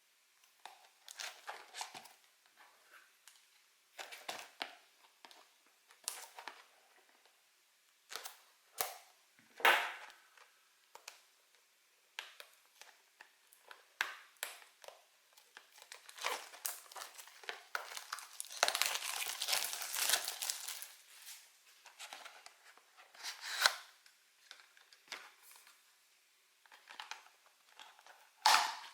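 Packaging of a Pokémon card box being unwrapped and opened by hand: intermittent crinkling and rustling with short pauses between handfuls. A longer stretch of continuous crinkling comes about two-thirds of the way through, and two sharper, louder crackles stand out.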